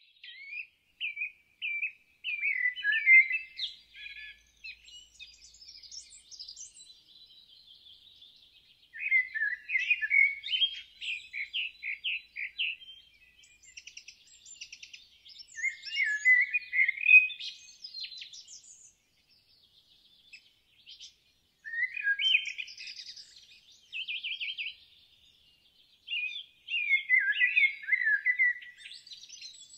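Songbirds singing: a louder, warbling phrase about every five or six seconds, with fainter chirps and trills from other birds in between.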